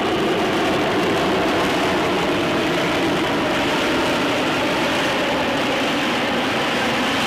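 Jet aircraft engine running, a loud steady rushing roar with a faint hum that holds even throughout.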